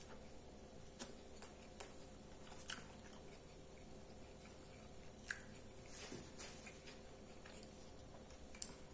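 Faint chewing of a mouthful of hamburger with the mouth closed, with scattered small mouth clicks and smacks over a faint steady hum.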